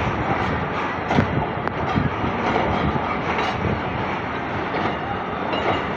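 Passenger train coaches rolling into a station, a steady rumble broken by irregular clicks and knocks from the wheels running over the rail joints.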